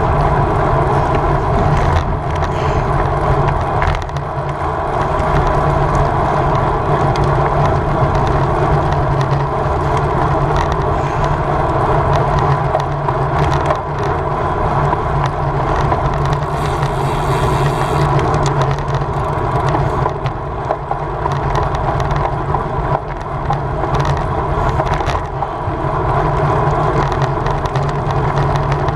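Steady wind and road noise from a road bicycle ridden at race speed.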